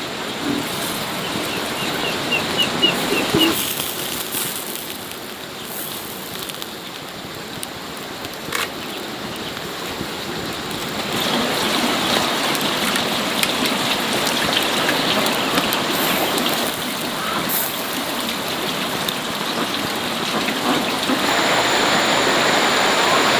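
Steady rain falling, growing louder about eleven seconds in. A few seconds in, a quick run of short high chirps sounds over it.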